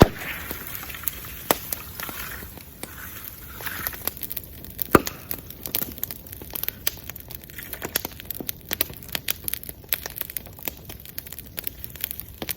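Wood bonfire burning, with irregular crackles and sharp pops from the burning wood. There is a loud pop about five seconds in and a soft hiss during the first few seconds.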